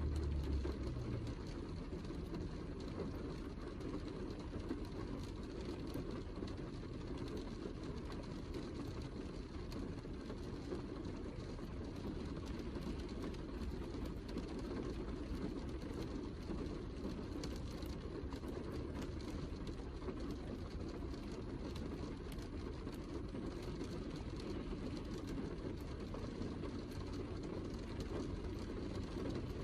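Steady heavy rain falling, a dense even hiss and patter with fine drop ticks. A low rumble fades out about a second in.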